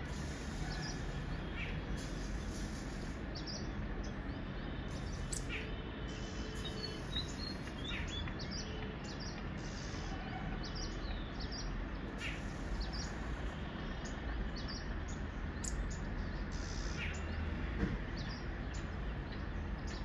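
Small birds chirping in short, scattered high notes over steady low background noise.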